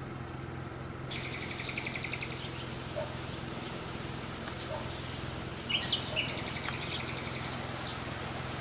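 Small birds chirping in short, quick calls, with two rapid trills, over a steady low hum.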